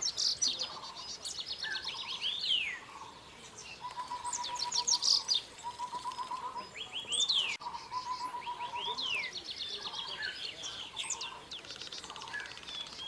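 Several birds calling: quick high trills and repeated down-sweeping calls over a lower, evenly pulsed trill.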